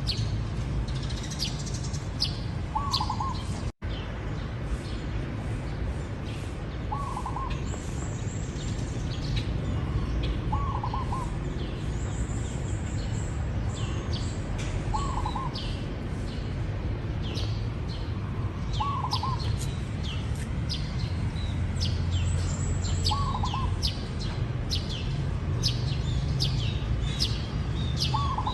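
Zebra dove giving a short, wavering coo phrase about every four seconds, over constant high chirping of small birds. The sound cuts out for an instant about four seconds in.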